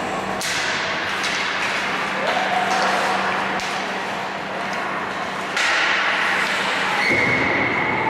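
Hockey play in a rink: a steady scrape and rumble of skates, broken by several sharp clacks of sticks and puck, with faint voices of players.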